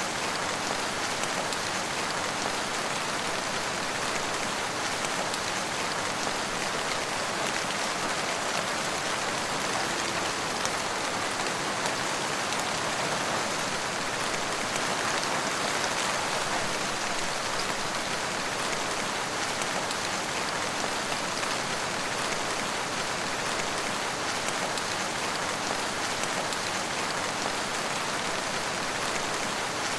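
Steady rain falling on a surface, a dense, even patter of drops.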